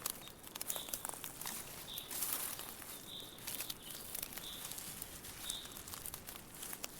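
Dry autumn leaves rustling and crackling in a steady stream of small clicks, with a short high chirp repeating about once a second.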